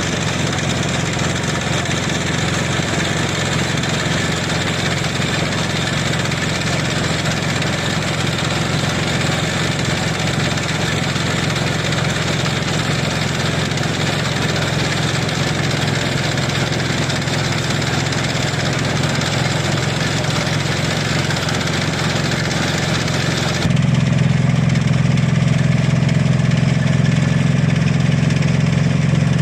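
Concrete mixer truck's diesel engine running steadily. About three-quarters of the way through, the sound changes abruptly to a louder, deeper engine hum.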